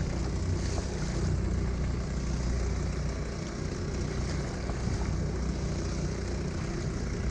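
Strong wind buffeting the microphone and sea water rushing past a kayak under way on choppy water, over a steady low drone.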